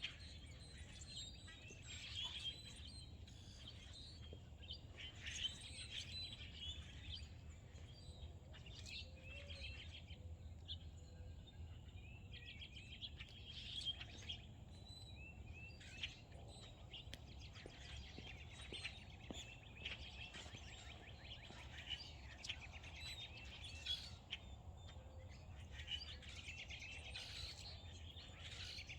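Several songbirds chirping and singing over one another in a continuous dawn-chorus-like mix of short calls and trills, over a steady low rumble.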